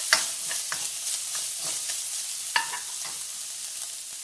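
Flaked salted cod sizzling in hot oil in a wok, stirred with a spoon that scrapes and clicks against the pan. The clicks are fewer toward the end.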